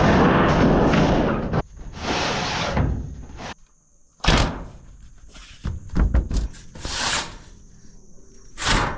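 Building work: a loud rushing, scraping noise at the start, then several separate thuds and knocks spaced a second or so apart.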